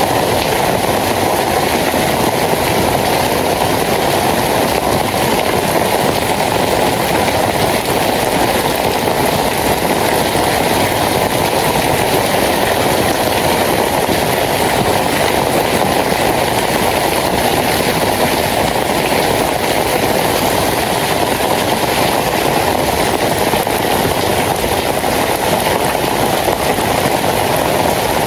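Steady rain falling, a loud, even hiss with no breaks.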